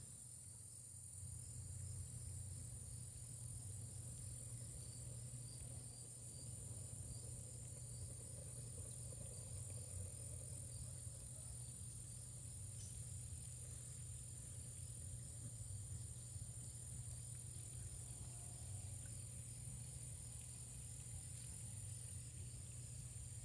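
Faint, steady chorus of crickets chirping in a regular pulse, over a low steady rumble.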